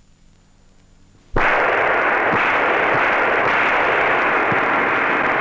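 Faint background, then about a second and a half in a loud, steady, even hiss like static starts suddenly and keeps on.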